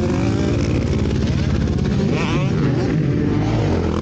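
Several motocross bikes' engines running hard during a race, their pitch rising and falling as riders rev through the gears and ease off.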